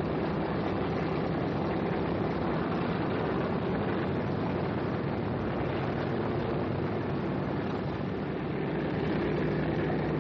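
Steady, continuous drone of aircraft engines in flight, with no change in level.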